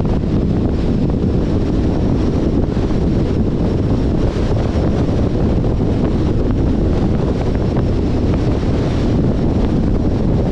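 Wind rushing over the microphone along with the road noise of a 2021 Jeep Compass driving at speed: a steady, loud, low rumble without breaks.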